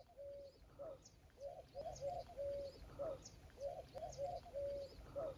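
Birds calling faintly: a low phrase of a few short notes ending in a longer held note, repeated about every two seconds, with faint high chirps from small birds.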